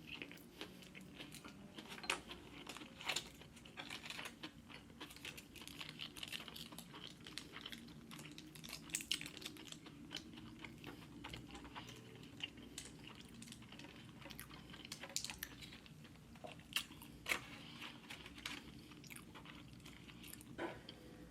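A person chewing sushi close to the microphone, with many irregular small wet mouth clicks and soft crunches.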